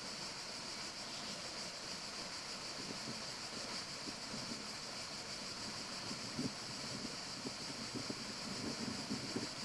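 Steady outdoor forest ambience: an even hiss, with soft irregular rustling that picks up from about six seconds in.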